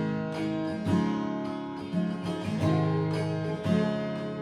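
Acoustic guitar strumming chords in an instrumental passage with no singing, a new strum about once a second.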